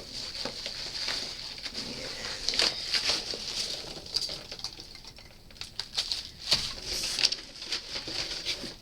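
Packing material being pulled out of a shipping box by hand: irregular rustling and crinkling with sharp little crackles.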